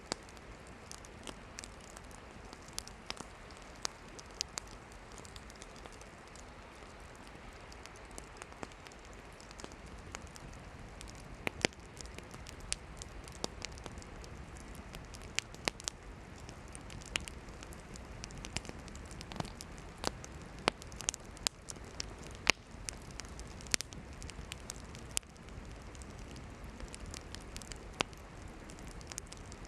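Wood campfire burning with a steady soft hiss and frequent sharp crackles and pops from the firewood, which grow more frequent and louder about a third of the way in.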